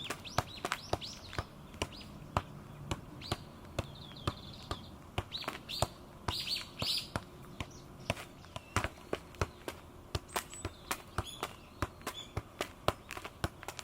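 Birds chirping in short calls through the first half, over a steady scatter of sharp clicks and ticks at a few per second.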